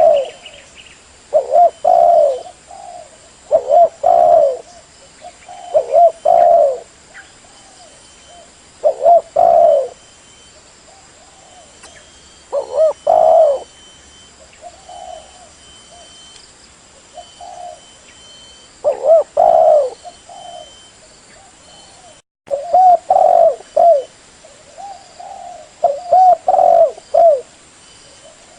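Spotted dove cooing over and over, short phrases of a few low coos coming about every two seconds, with softer coos in a lull in the middle. The sound cuts out for a moment a little past the middle.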